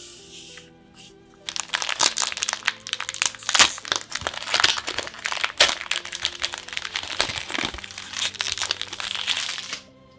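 Crinkly plastic packaging of a Magic: The Gathering booster product crackling as it is handled and torn open, a dense run of crinkles starting about a second and a half in and stopping just before the end. Background music plays underneath.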